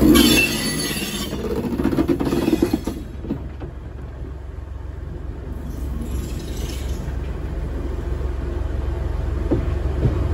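Heritage railway train running slowly along the track, heard from on board: a steady low rumble of the wheels on the rails, with a louder, noisier rattle in the first three seconds.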